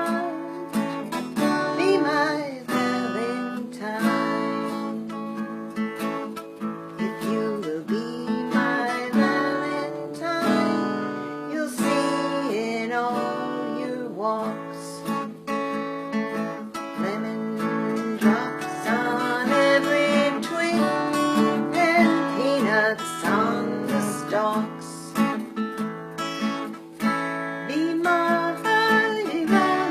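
Acoustic guitar playing a song, with strummed chords.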